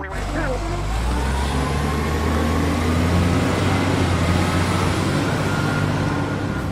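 A heavy vehicle engine running with a steady low rumble and a faint, slowly rising whine.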